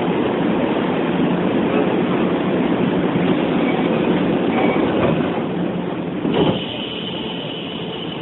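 Running noise of a Hokuso 7500-series electric commuter train, heard from inside the car: a steady rumble of wheels on rail. About six and a half seconds in comes a sharp knock, after which the noise is lower and a steady high tone sounds.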